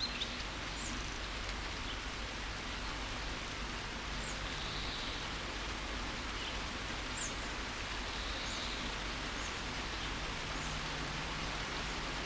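Steady rain falling, an even hiss of drops, with a few faint, short, high bird chirps scattered through it.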